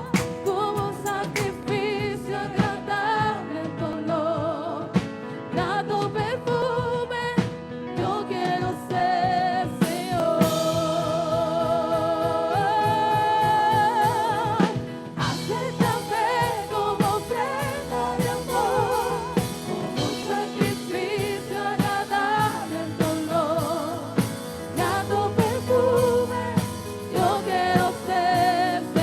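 Christian worship song: singing with vibrato on long held notes over instrumental accompaniment with a steady beat.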